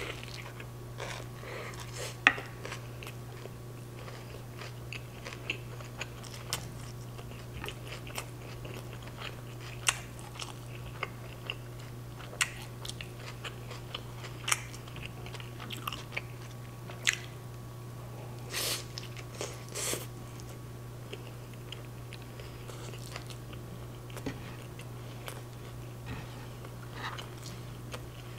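Close-miked chewing of a carne asada street taco: wet mouth clicks and occasional crunches come irregularly throughout, with a denser cluster about two-thirds of the way in. A steady low hum runs underneath.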